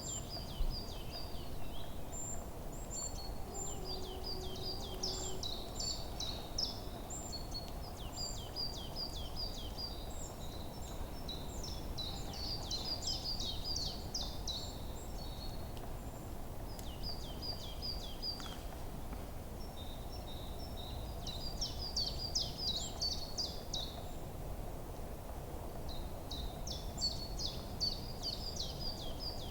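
Forest songbirds singing phrases of rapid, high chirps and trills that come in bursts of a few seconds with short pauses between, over a steady low background hum of outdoor noise.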